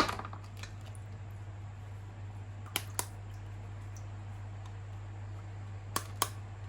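Sharp handling clicks of small hard objects over a steady low hum: one at the start, then a quick pair about three seconds in and another pair near the end.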